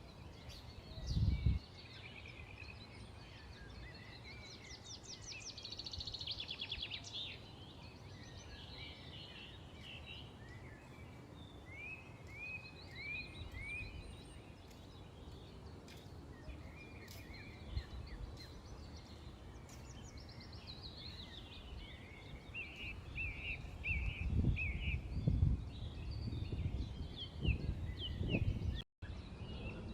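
Several small birds chirping and twittering, with a fast trill around five to seven seconds in and runs of short repeated chirps through the middle. Low rumbling bumps come about a second in and several times near the end, and the sound cuts out for a moment just before the end.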